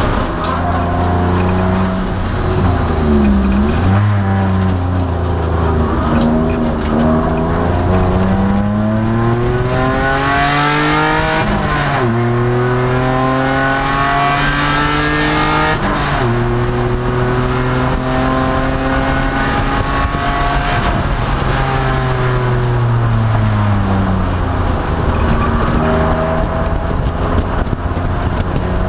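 2002 Nissan Maxima's V6 engine heard from inside the car at racing speed. Revs climb through the gears, with sharp drops at upshifts about twelve and sixteen seconds in. Near the end the revs fall as it slows and shifts down, after a first dip and rise in the opening seconds.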